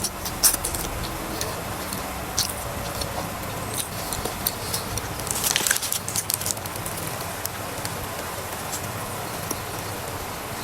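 Close-miked chewing and biting of a crispy fried chicken burger: irregular crunches and wet mouth clicks, with a denser run of crunching about five and a half seconds in.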